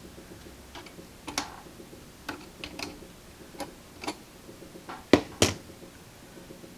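Scattered light clicks and taps of small hand tools working on a radio chassis during a capacitor replacement. Two sharper clicks come about five seconds in, a third of a second apart.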